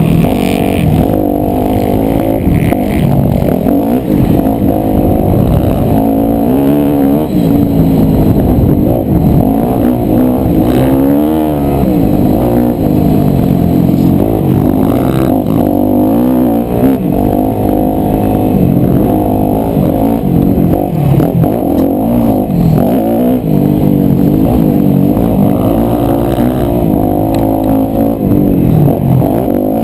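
250 cc four-stroke motocross bike engine, loud throughout, its pitch rising and falling again and again as the rider works the throttle and gears around the track.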